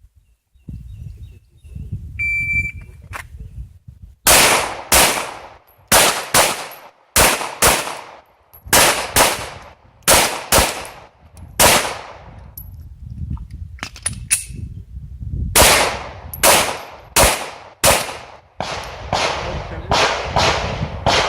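Shot-timer start beep, then a semi-automatic pistol fired rapidly, mostly in quick pairs of shots, about twenty shots in all with a pause of a few seconds midway.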